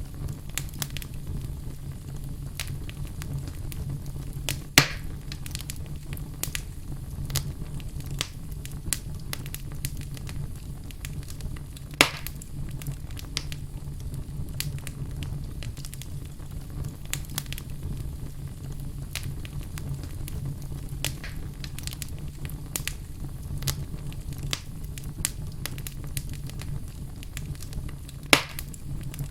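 Wood fire burning in a fireplace: a steady low rumble under constant small crackles, with three loud sharp pops about 5, 12 and 28 seconds in.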